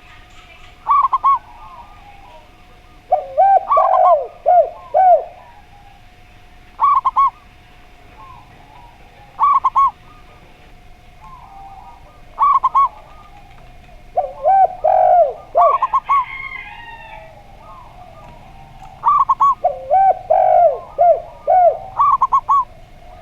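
Zebra dove and spotted dove cooing in turn. Short phrases of three or four quick notes repeat every few seconds, and three times a longer, lower run of five or six coos comes in. A faint steady hum sits underneath.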